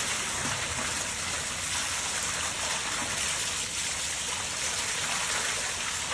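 Steady rush of spring water pouring down in a small waterfall, an even, unbroken splashing.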